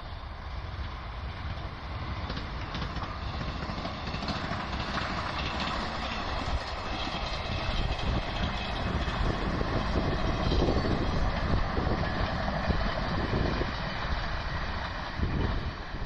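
A passing electric express train running along the track, a steady rushing rumble with faint rail clatter. It grows louder toward the middle as the train draws level, then eases off near the end.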